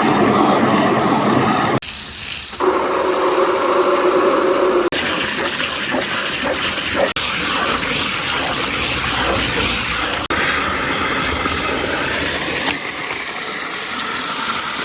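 Marbles rolling fast along marble-run tracks, a continuous loud rolling rush with small clicks. Its tone shifts abruptly a few times and it cuts off sharply at the end.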